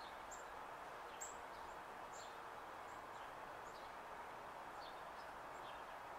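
Faint birdsong: short, high chirps repeating every half second or so, the clearest about a second in, over a steady background hiss.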